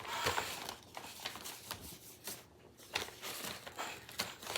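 Paper crinkling and rustling in irregular short bursts as a handmade paper laptop is handled.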